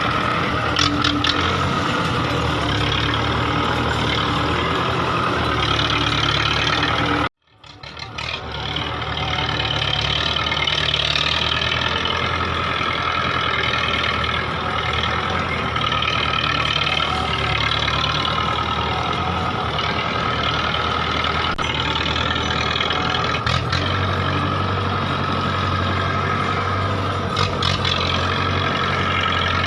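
Belarus 510 tractor's diesel engine running steadily. The sound cuts out suddenly about seven seconds in and fades back up within a second or two.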